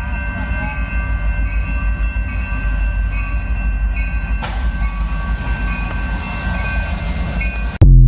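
Train approaching a crossing with its horn held in a steady chord over the rumble of the locomotive and wheels. Near the end there is a sudden very loud burst, then the sound cuts off.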